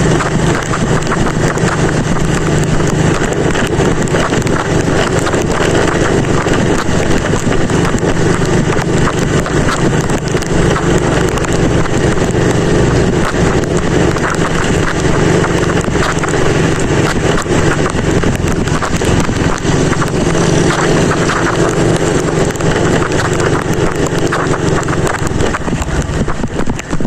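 Motorcycle engine running steadily while riding, under a constant rushing noise of wind on the microphone.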